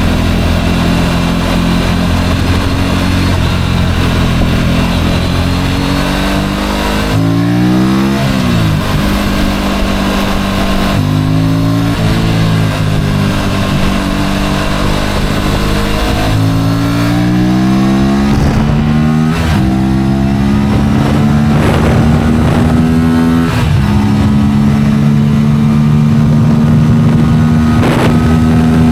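Motorcycle engine running while riding, its revs rising and dropping several times as it accelerates and changes gear, then holding a steadier pitch near the end.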